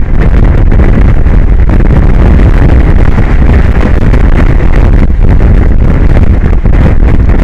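Strong wind buffeting the microphone, a loud, steady low rumbling roar with no breaks.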